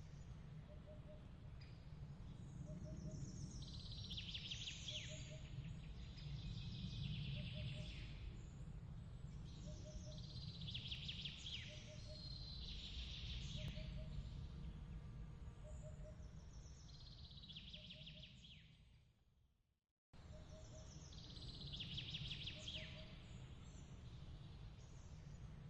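Faint nighttime nature ambience: a steady low rumble of noise under recurring bursts of twittering bird chirps, with a soft short double note repeating about every second and a half. The whole bed fades out about 19 seconds in, drops to silence and cuts back in at 20 seconds, as at a loop point.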